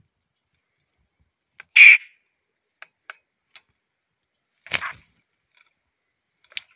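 Bird giving two short, harsh calls about three seconds apart, with a few faint ticks between them and a brief high call near the end.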